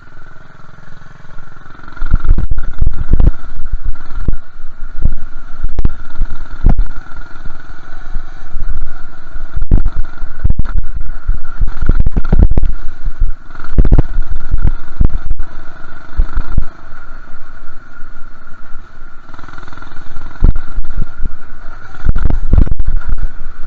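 Minibike engine running under throttle with a steady high whine while being ridden over a bumpy dirt track. Heavy low rumbling and thumps from wind and jolts hitting the microphone come and go throughout.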